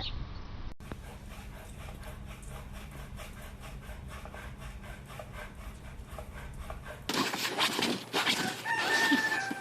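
A rooster crowing near the end, one drawn-out call that falls slightly at its close, after several seconds of steady rustling background noise.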